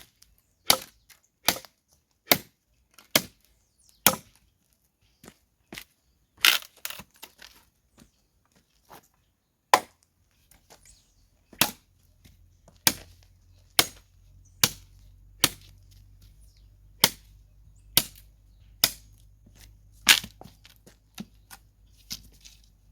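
Machete chopping small sticks of firewood: sharp blows about once a second, one after another, the blade somewhat dull.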